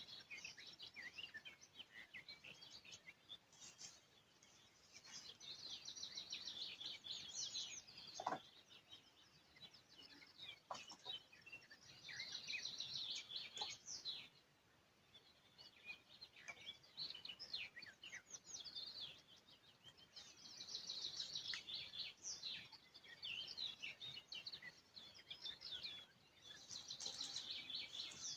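Songbirds singing: high chirping phrases of about two to three seconds, one after another with short pauses, over faint outdoor background noise.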